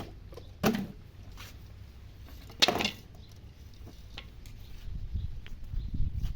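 Scattered light taps and clicks from handling, with two louder brief knocks, one near the start and one about two and a half seconds in, over a low rumble that grows near the end.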